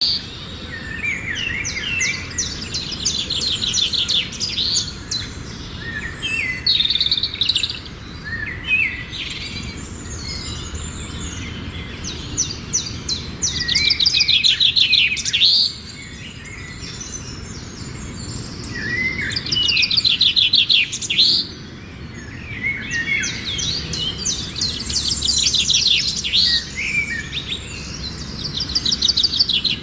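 Small birds chirping, with repeated bursts of rapid, high trills every few seconds over a faint low background noise.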